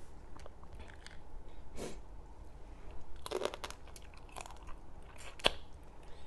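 A person chewing close to the microphone, with a few crisp crunches, plausibly from biting through the shell of a small raw blue crab: one about two seconds in, a cluster about three seconds in, and a sharp crack near the end.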